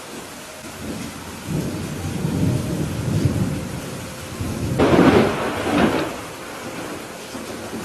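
Steady rain with rolling thunder: a low rumble builds from about a second and a half in, then a louder, sharper clap near five seconds that dies away a second or so later.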